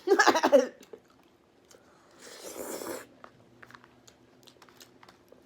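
A person chewing food close to the microphone, with small wet mouth clicks. There is a short, loud voiced sound right at the start and a brief noisy rush about two seconds in.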